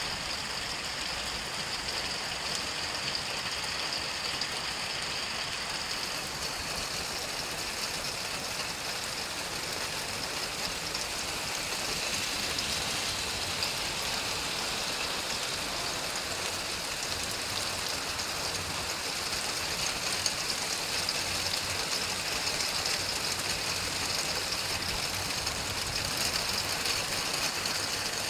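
Heavy thunderstorm downpour of rain with hail falling on asphalt, puddles and trees, a steady dense hiss that grows a little louder about twelve seconds in.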